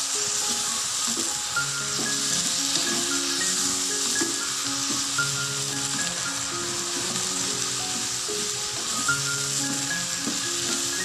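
Diced potatoes, okra and onions frying in oil in a pan, with a steady sizzle as they are stirred with a spatula. Soft background music with held notes plays along.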